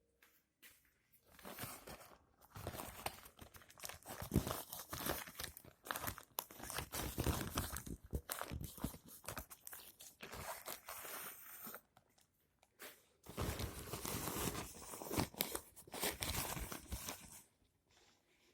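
Worn canopy fabric of a Blade Trigger 10 kite creaking and crinkling in dense crackles, in two long stretches with a short break about twelve seconds in.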